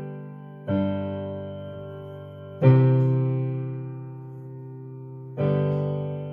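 Piano chords of a hymn accompaniment played slowly: three sustained chords struck about two seconds apart, each left to ring and fade.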